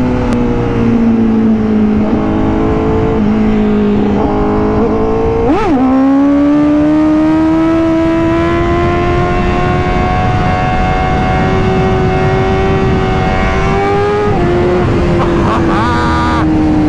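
Honda CBR1000RR-R Fireblade SP's inline-four engine running hard under way through a slip-on exhaust. The rev note spikes sharply up and back down about five and a half seconds in, then climbs slowly and steadily, drops a step near the end and eases off.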